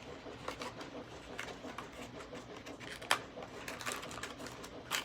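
Plastic packaging being worked and cut open by hand to free a die-cast model car: scattered clicks and crackles, with one sharp click about three seconds in.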